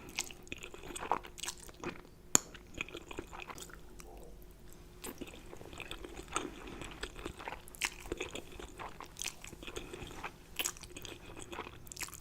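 Close-miked chewing and mouth sounds of someone eating spaghetti: irregular wet smacks and clicks, with one sharp click about two seconds in as the loudest.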